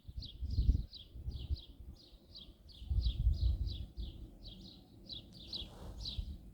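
A bird chirping over and over, short high downward-sliding chirps about three a second, over a low rumbling noise that comes and goes.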